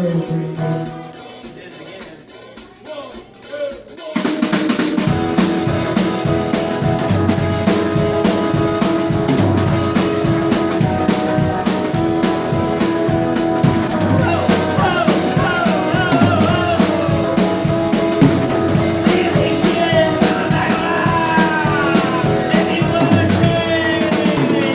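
Live instrumental break by a guitar-and-drums duo: guitar playing alone and quieter for the first few seconds, then the full drum kit comes in about four seconds in, with kick, snare and rimshots driving a steady beat under the guitar.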